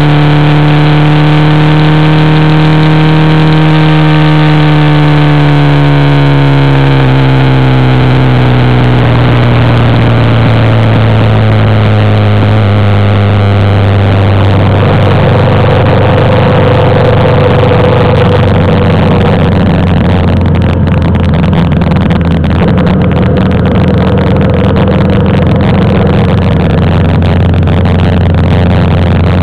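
Motorcycle engine running close to the microphone, its pitch sinking slowly over the first dozen or so seconds as the bike slows, then holding steady at a lower pitch while a rushing road and wind noise grows.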